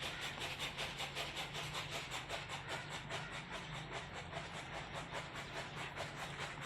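Old 20 HP stationary diesel engine running steadily, with an even exhaust beat of about five a second over a low hum.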